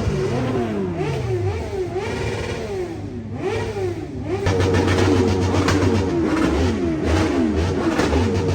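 Car engine revved in quick repeated blips, each rising and falling in pitch. About halfway through it gets louder and holds a steady high rev, with more revs over it.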